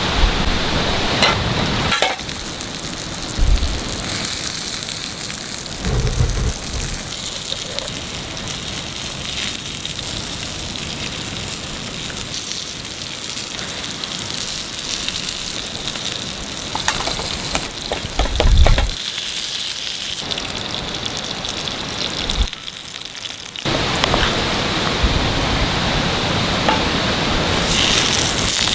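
Food frying over a campfire: a steady sizzle with scattered crackles, changing abruptly several times.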